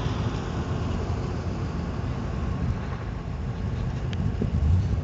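A C4 Corvette's V8 engine running as the car works through an autocross course, heard from a distance as a steady low rumble.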